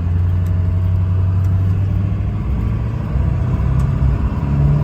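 Ford F350's 7.3-litre turbo diesel engine pulling under acceleration, a loud low drone. Its pitch steps higher near the end.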